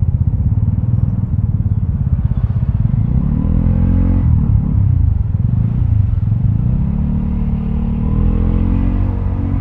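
Vespa scooter's single-cylinder engine running through a Prospeed Black CNC aftermarket exhaust while riding, with a deep rumble. The pitch rises under throttle, drops about four seconds in as the throttle is eased, then climbs steadily again through the second half.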